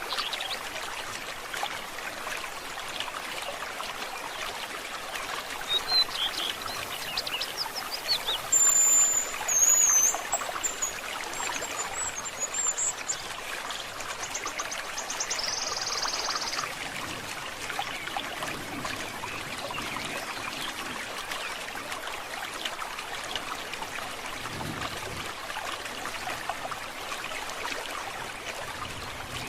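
Small stream trickling steadily, with birds calling over it: a few quick rising chirps about six seconds in, a high warbling song from about eight to thirteen seconds, and a short buzzy note a few seconds later.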